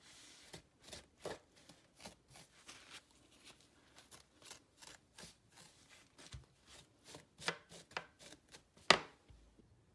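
A brush pulled repeatedly through a doll's wet, tangled hair to detangle it after a fabric-softener soak: quick scratchy strokes, about two or three a second, with one louder stroke near the end.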